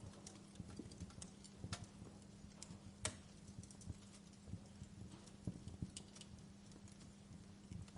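Wood fire crackling in a fireplace: faint, irregular small pops and snaps, the sharpest about three seconds in, over a soft steady hiss with a low hum beneath.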